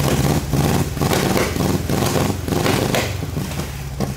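Air-cooled VW flat-four engine running through short open exhaust pipes, revved by hand at the carburettor in a few quick blips. It is a long-parked engine just brought back to running.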